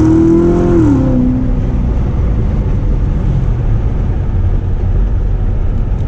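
2016 Corvette Z06's supercharged 6.2-litre V8 under acceleration, its pitch still climbing, then dropping sharply about a second in. After that comes a steady low engine and road drone as the car cruises.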